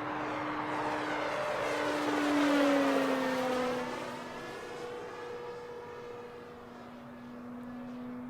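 Electric RC P-47D warbird, a brushless motor turning a 15x10 propeller, flying past: its steady propeller hum grows loudest about two and a half seconds in, then drops in pitch and fades as the plane moves away.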